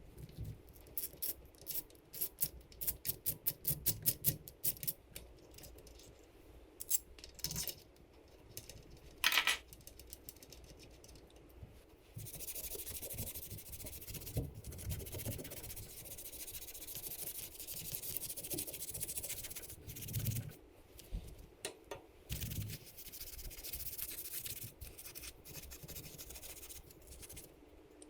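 Hand scrubbing of the dirt-bike engine's grimy cases: a run of quick, sharp scratchy strokes for the first twelve seconds or so, then steadier continuous rubbing with a few short pauses.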